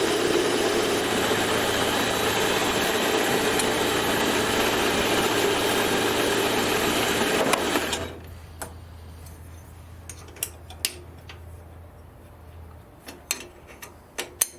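A small workshop machine tool running and cutting metal for about eight seconds, then winding down. After it stops come a few light metallic clicks and knocks as the part and tools are handled.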